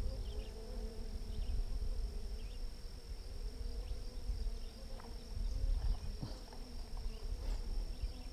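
Honeybees buzzing around an open hive: a steady, wavering hum. Under it runs a low rumble on the microphone, and a few faint clicks come about two-thirds of the way in.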